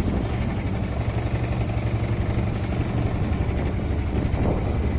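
Small fishing boat's motor running steadily, a constant low drone with wind and water noise over it.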